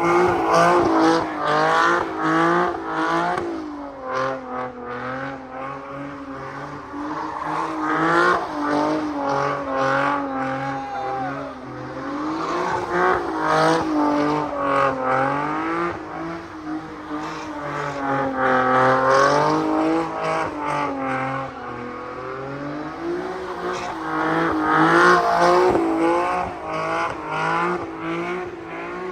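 A car engine revved hard again and again, its pitch rising and falling in waves every few seconds.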